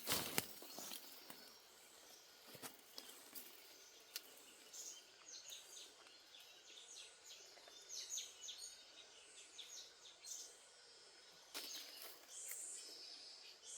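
Faint high chirps of small birds, coming thick and fast in the middle, over quiet forest background. A sharp knock comes right at the start and a fainter one a few seconds later.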